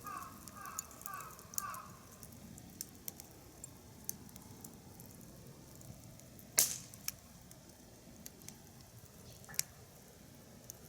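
Wood fire crackling, with scattered small pops and one sharp, loud pop about six and a half seconds in.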